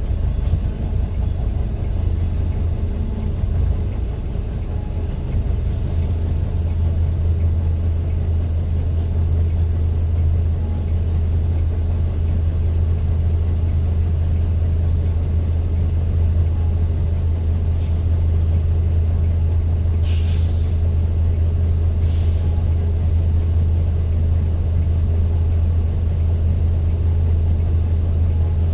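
A vehicle's steady low engine and road drone heard from inside as it drives, with two short hisses, like air brakes, about twenty and twenty-two seconds in.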